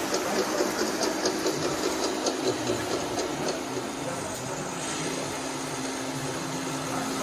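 Small electric motor and gearbox of a toy RC construction vehicle whirring steadily, with a rapid, regular ticking about four times a second that stops about halfway through.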